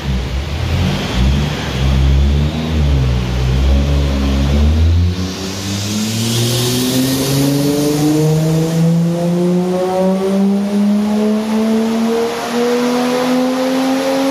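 Toyota 1JZ-GTE VVTi turbocharged 2.5-litre straight-six, on its stock CT15B turbo at 1.2 bar, running on a chassis dyno. For about five seconds it runs low and uneven, then it climbs steadily in revs under load in a dyno pull, its note rising smoothly without a break.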